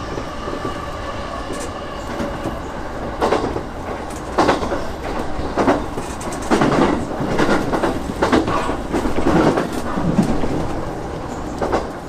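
E233-6000 series electric train running on the track, its wheels clattering over rail joints in a series of irregular knocks from about three seconds in.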